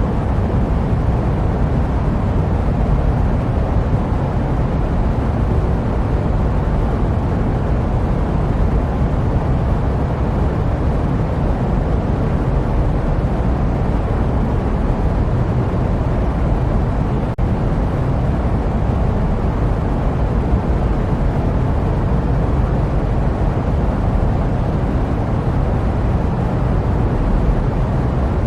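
Jet airliner engine noise as heard in the cabin: a steady, deep, even rumble without any tone or rhythm, broken only by a split-second dip about two-thirds of the way through.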